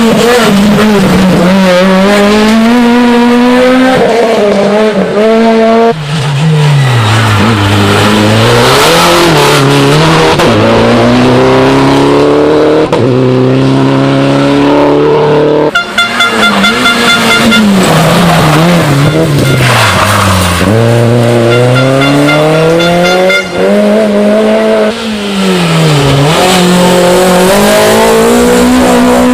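Rally cars at full throttle, engines revving up and dropping back with each gear change as they pass. The sound cuts abruptly twice, about six seconds in and near the middle, to another car.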